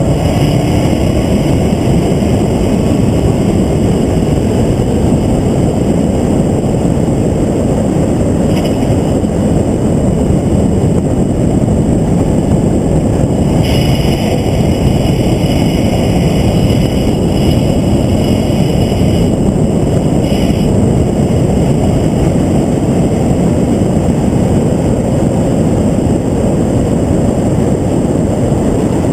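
Onboard sound of a vehicle at speed on a race track: a loud, steady rush of wind buffeting and engine noise, unbroken throughout.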